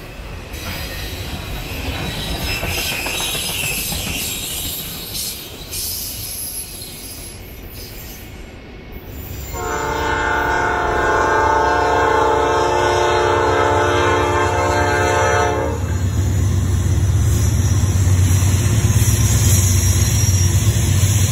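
Freight train cars rolling past with wheels clacking over the rails. About halfway through a diesel locomotive's air horn sounds one long blast of about six seconds, then the locomotives' diesel engines rumble deeply as they pass.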